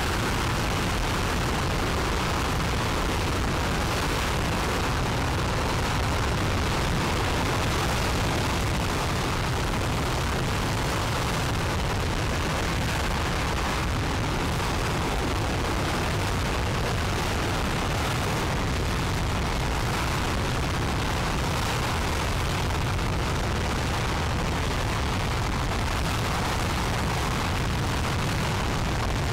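Aerojet Rocketdyne RS-25 liquid-hydrogen/liquid-oxygen rocket engine firing steadily on a test stand: a loud, unbroken roar heaviest in the low end, holding one level throughout.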